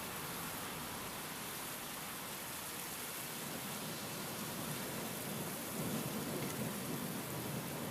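Steady rain and wind hiss, with a low rumble of thunder beginning a little past halfway and slowly building toward the end.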